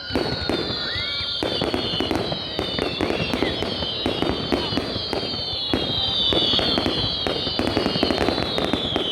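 Fireworks display: a rapid run of bangs and crackles several times a second, with several high whistles gliding slowly downward over a few seconds.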